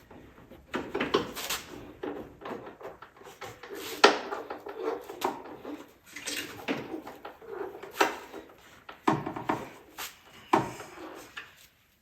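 Irregular knocks and clatter of tools and parts being handled in a workshop, with one sharp knock about four seconds in.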